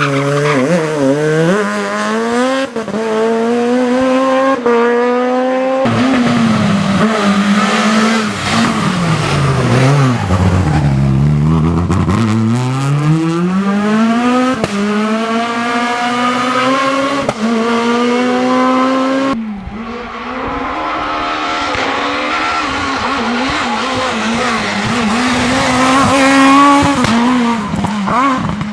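Super 1600 rally cars' high-revving, naturally aspirated 1.6-litre four-cylinder engines driven flat out, revs climbing and dropping back at each upshift. Midway a car brakes with revs falling low, then accelerates hard again. The sound cuts abruptly to another car about six seconds in and again near the end.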